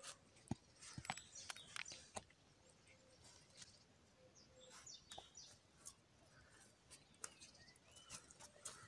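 Faint rustling and crinkling of a plastic bag being handled, in scattered clicks that are thickest in the first couple of seconds. Faint bird chirps can be heard in the background.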